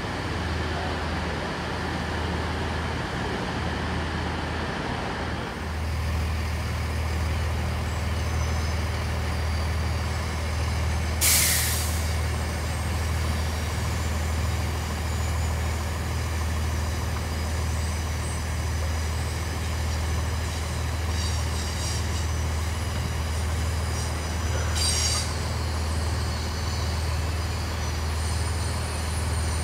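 Steady low drone of idling train engines that steps up a little about six seconds in. A short, loud hiss of air released from the train's air brakes comes just past eleven seconds in, and a fainter one follows about twenty-five seconds in.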